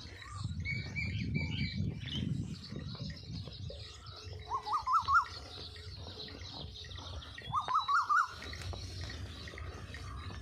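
Birds calling in an orchard: many small chirps throughout, with two louder calls of four or five quick up-and-down notes each, about three seconds apart.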